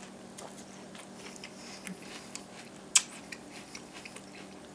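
Close-up chewing of crisp rice cereal (Birthday Cake Pebbles): small irregular crunches and mouth clicks, with one sharper crunch about three seconds in.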